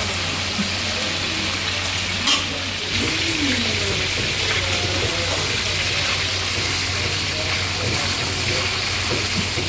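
Chicken pieces deep-frying in hot oil in a karahi, a steady sizzle as they are half-fried, with a steel slotted spoon stirring through the oil and a short knock about two seconds in. A steady low hum runs underneath.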